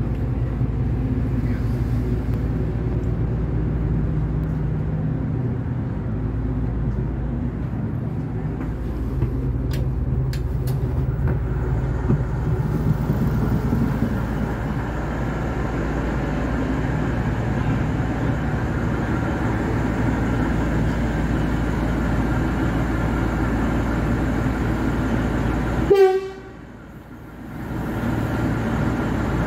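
V/Line diesel train running, heard from on board: a steady low engine drone over the rumble of the wheels, with a few clicks about ten seconds in. Near the end comes a short, high toot, then the running noise drops away for a couple of seconds before it returns.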